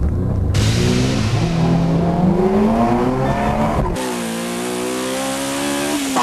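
In-cabin sound of a Mazda FD3S RX-7's twin-rotor engine revving up hard under acceleration, its note climbing steadily. About four seconds in it switches to a Honda EG6 Civic's four-cylinder heard from inside, its engine note falling slowly as the revs drop.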